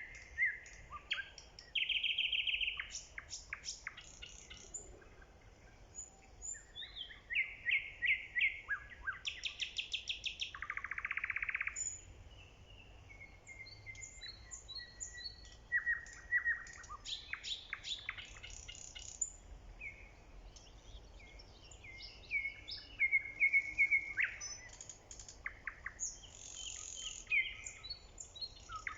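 Nightingale singing: a string of varied phrases of rapid repeated notes, trills and clear whistles, each lasting a second or two, with short pauses between them.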